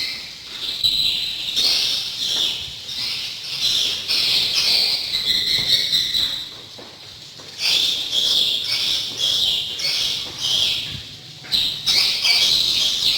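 Swiftlets chirping and twittering: a dense, high-pitched chatter with brief lulls about six and eleven seconds in.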